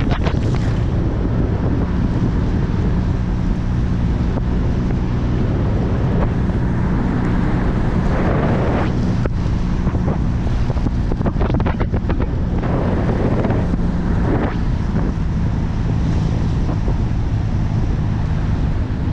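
Jeep engine running steadily while driving a rough mountain track, with wind buffeting the microphone and several louder gusts in the middle.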